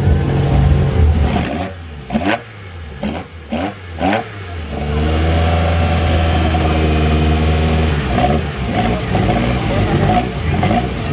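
Turbocharged Toyota AE86 engine blipped several times in quick succession, each rev dropping sharply with a short blow-off valve hiss, then settling back to a steady, lumpy idle.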